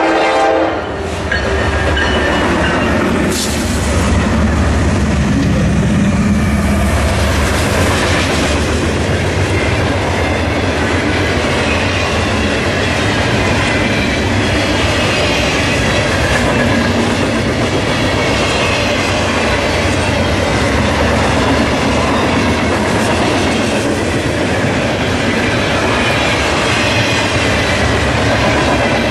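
A freight train passing close by. A horn blast cuts off at the very start. The lead diesel locomotives then run past with a deep rumble over the first several seconds, followed by the steady clatter of freight car wheels over the rails and a faint high wheel squeal.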